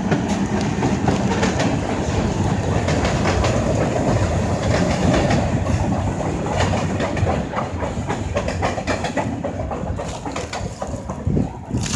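Freight train rolling past at close range, its car wheels clacking over the rail joints in a steady run of clicks over a low rumble. The sound falls away near the end as the train passes.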